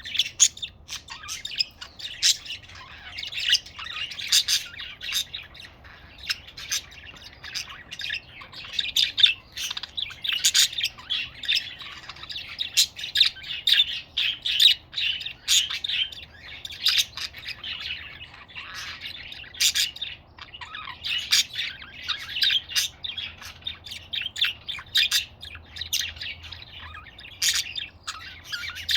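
Budgerigars chattering and warbling, a dense, continuous stream of rapid high chirps and clicks.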